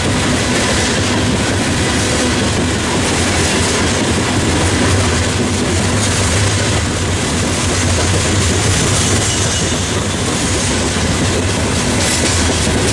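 Steel wheels of a long Norfolk Southern coal train's open-top coal cars rolling over the rails: a loud, steady rolling and rattling noise as car after car passes.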